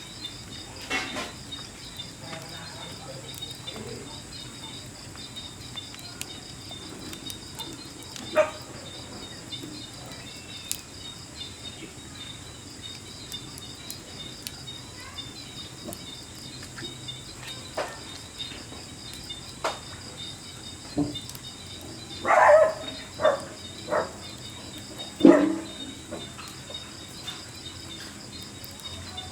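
Steady chorus of night insects such as crickets, chirping in a fast, even pulsing trill, with scattered faint clicks and a few louder short sounds over the last several seconds.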